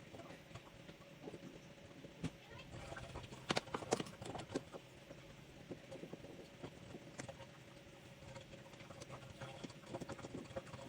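Faint, irregular clicks and taps of shower valve parts being handled and adjusted while the new cartridge's hot and cold limit is recalibrated, over a faint steady hum.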